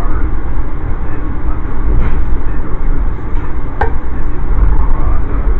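Steady loud rumble of an Amtrak passenger train under way, heard from on board, with one sharp click a little before four seconds in.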